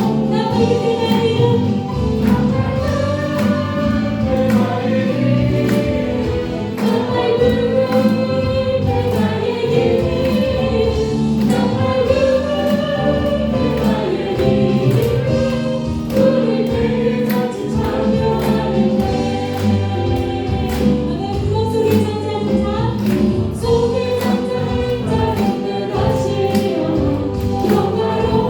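Group singing of a Christian praise song over instrumental accompaniment, with a steady beat throughout.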